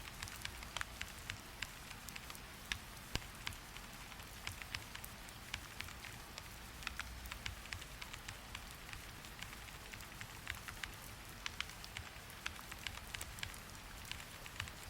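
Rain falling steadily, with scattered sharp clicks of keyboard typing over it, several a second and irregular.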